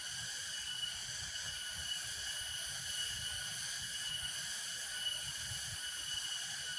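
A steady, high-pitched chorus of insects, even and unbroken, with a faint low rumble underneath.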